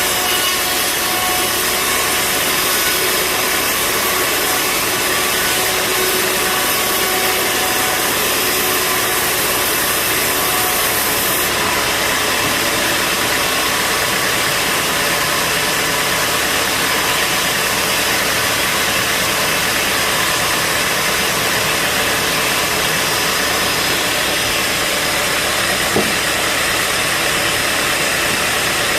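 Bandsaw sawmill running, its band blade cutting through a large mahogany log with a steady loud saw noise. The highest hiss drops away about twelve seconds in, and there is a single short knock near the end.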